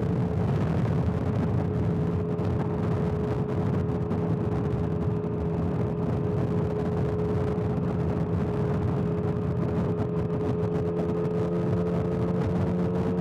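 Motorcycle engine running at a steady highway cruise under a heavy rush of wind and road noise. Its pitch rises slightly over the last few seconds as the bike gently picks up speed.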